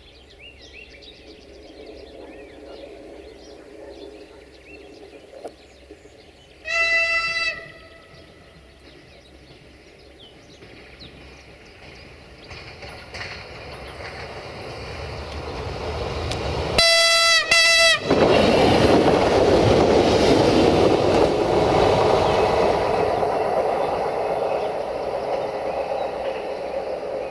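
Siemens Desiro VT642 diesel multiple unit sounding its horn: one blast about a quarter of the way in, then two short blasts just past the middle. After that the unit's diesel engine and wheels grow loud as it runs past close by, then fade toward the end. Birds chirp faintly at the start.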